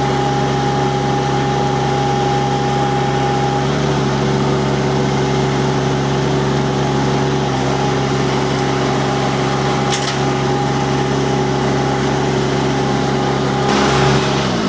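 Mini skid steer's diesel engine running steadily at high speed with its hydraulics, a constant drone with a steady whine over it, swelling briefly just before the end.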